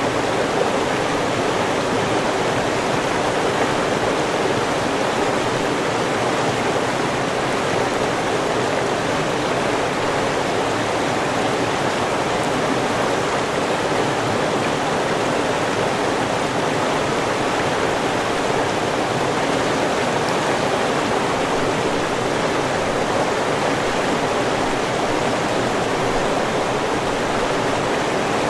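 River water flowing steadily, a constant rushing with no distinct splashes or other events.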